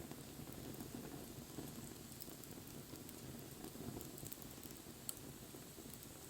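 Wood campfire burning: a low, steady rustle of flames with faint scattered crackles from the burning wood, and one sharper pop about five seconds in.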